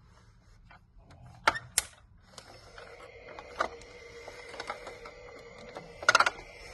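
LeapFrog Pick Up and Count toy vacuum being played with: two sharp plastic clicks, then a steady mechanical whir with scattered clicks and rattles, ending in a short burst of plastic clatter.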